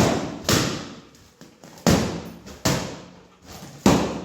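Balloons bursting as a Malinois puppy bites them: five sharp bangs in quick, uneven succession, each with a short echoing tail.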